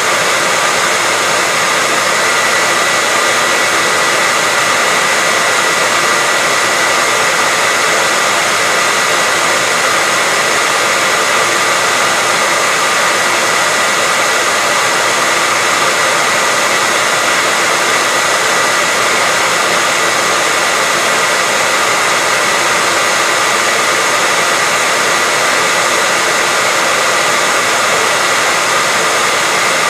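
Hairdryer running steadily, a constant rush of air with a steady high whine from its motor and fan.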